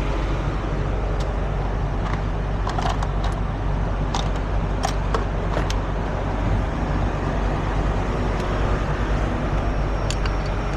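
Heavy diesel truck engine idling steadily, with several short sharp metallic clinks scattered over it in the first half and once near the end.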